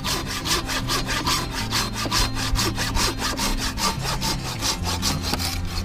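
A Silky folding pull saw cutting through a small dry wooden branch by hand, in quick, even back-and-forth strokes.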